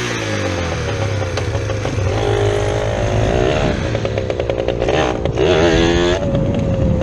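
Dirt bike engine running and being revved, its pitch rising and falling several times.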